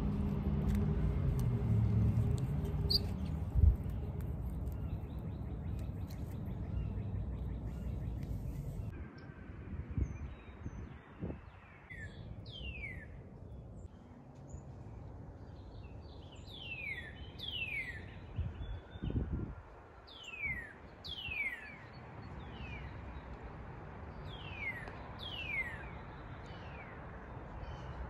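A bird singing repeated short, clear notes that slide downward, often in pairs, from about twelve seconds on. For the first nine seconds a louder low rumble covers everything and then cuts off abruptly.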